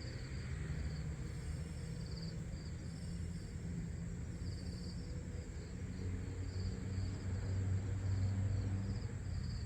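Crickets chirping outdoors in short repeated pulses, about one to two a second, over a steady high insect drone and a low rumble that swells near the end.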